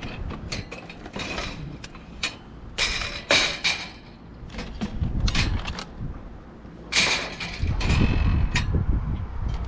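Rummaging through a dumpster: a series of irregular knocks and clatters as items are moved about, some ringing briefly, with the loudest cluster about three seconds in and another about seven seconds in.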